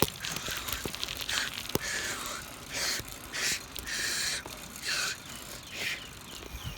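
A person breathing hard in short, hissing breaths, roughly one a second, as from exertion while cycling.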